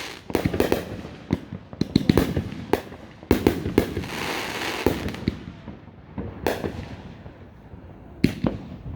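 Fireworks display: a quick run of sharp bangs from shells bursting, with a crackling hiss about halfway through, a short lull, then a couple more bangs near the end.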